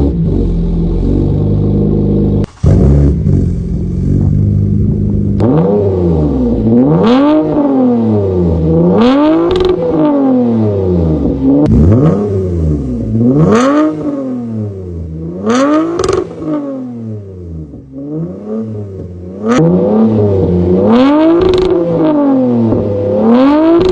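2023 Toyota Camry XSE's 3.5-litre V6 exhaust with the muffler and both resonators deleted: the engine idles steadily for about five seconds, then is revved over and over, each rev rising and falling back, roughly one every two seconds.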